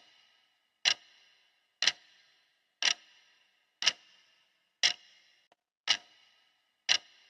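Clock ticking steadily, one sharp tick each second with a short ringing tail.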